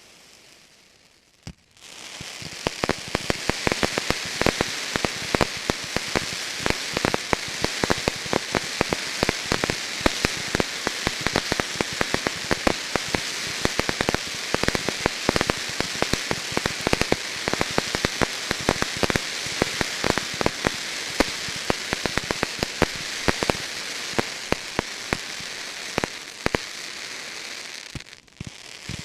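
Category F2 consumer fireworks crackling: a dense stream of rapid small pops over a hiss. It starts about two seconds in and breaks off briefly near the end.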